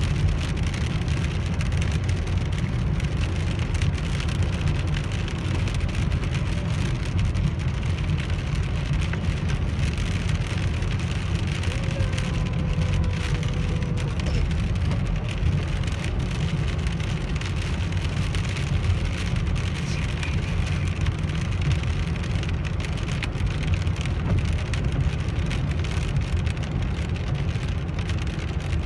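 Car driving in rain, heard from inside the cabin: a steady low road and engine rumble, with rain on the car making an even hiss over it.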